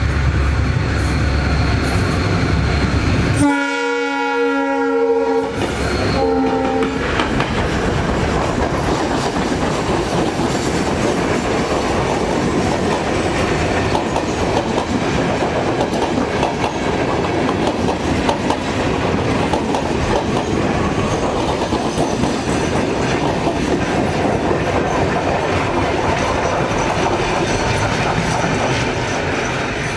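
Class M11 (WDG4D) diesel-electric locomotive approaching with its engine running, then sounding its multi-tone horn: one blast of about two seconds starting a few seconds in, then a short second blast. Its passenger coaches then roll past with steady wheel-on-rail noise and clickety-clack over the rail joints.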